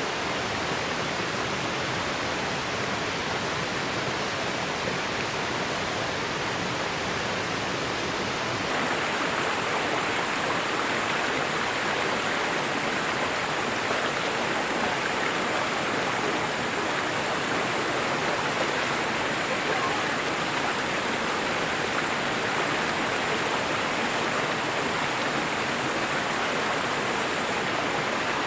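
Flowing river water rushing steadily. It grows a little louder and brighter about nine seconds in, when a faint, thin, high steady tone also comes in and stops about a second before the end.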